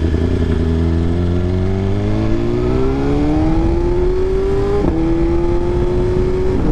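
BMW S1000RR's inline-four engine pulling up through a gear, its note rising steadily for several seconds. About five seconds in the pitch drops suddenly at an upshift, and the engine then holds a steady note.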